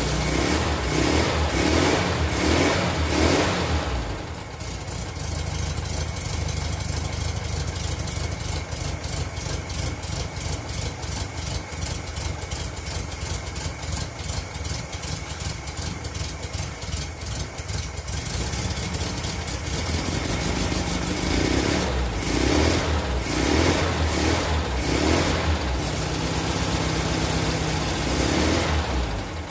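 VW single-cab pickup's engine running roughly on one of its first starts. It surges in repeated pulses for the first few seconds and again through the last third, with a steadier, even run in between.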